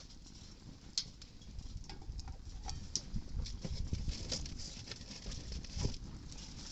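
Wood campfire crackling, with irregular sharp pops over a low wind rumble on the microphone.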